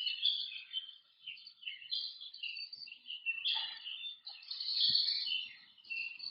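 Recorded songs of several Western Washington bird species, played back by a motion-triggered sound installation. It is a dense chorus of overlapping high chirps and trills.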